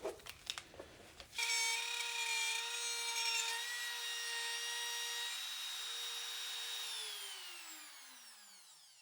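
Handheld wood router switched on about a second and a half in, running at a steady high whine. It is switched off near the end, and its pitch falls as the bit spins down.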